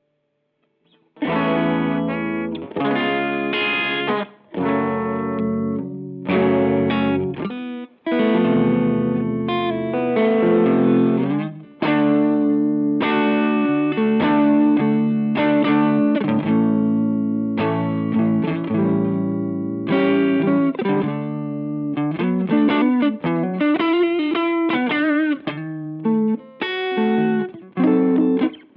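Electric guitar played through a NuX Monterey Vibe, a digital Uni-Vibe-style modulation pedal: phrases of chords and single notes with a wavering, pulsing modulation on the sustained notes. It starts about a second in after silence.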